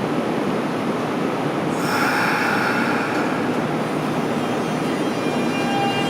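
Kintetsu 1026 series electric train pulling out of a station: steady train noise, with a brief hiss about two seconds in and the motors' VVVF inverter whine setting in near the end as it starts moving.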